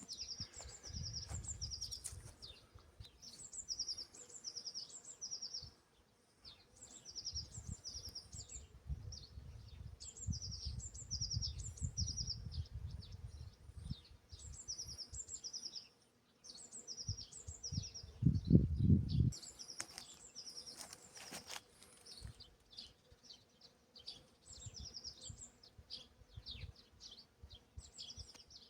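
A small songbird singing a short phrase of quick high notes, repeated every couple of seconds. Patches of low rumble come and go underneath, with the loudest burst about two-thirds of the way through.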